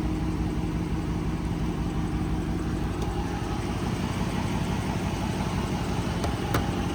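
2020 Dodge Charger R/T's 5.7-litre Hemi V8 idling steadily, with a single sharp click near the end.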